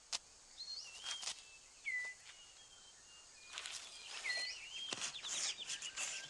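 Rainforest ambience: birds whistling short sliding notes about once a second, with intermittent dry crackles and rustles of leaf litter as the six-plumed bird of paradise clears his display ground. The calls and rustling grow busier in the second half.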